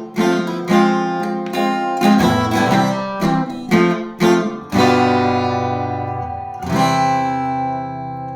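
Acoustic guitar strumming the closing chords of a song: several quick strums, then a chord held from about five seconds in, and a last strum near the end left to ring out and fade.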